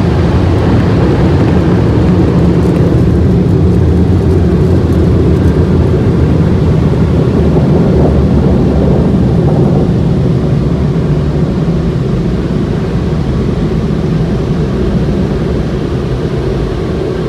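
Car wash machinery running: a loud, steady rumble that eases slightly near the end.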